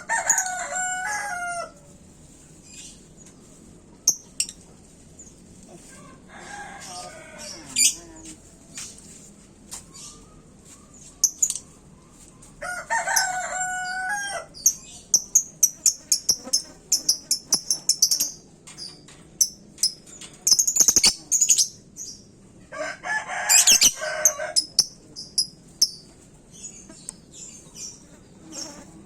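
Lovebird chattering in rapid high chirps. Another bird answers four times with a longer, lower call of a second or two.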